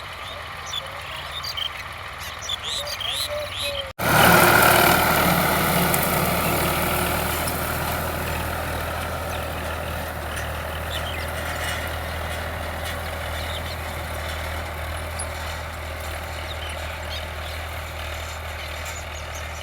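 Tractor diesel engine running, first as a low hum under birds chirping. About four seconds in, the sound cuts to a much louder, closer engine that eases off over the next few seconds and then runs steadily.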